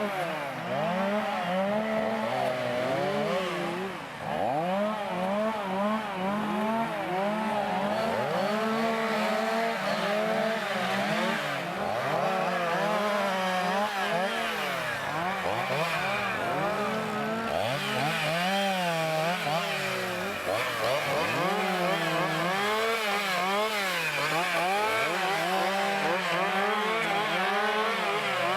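Chainsaw engine running continuously while working wood, its pitch rising and falling over and over.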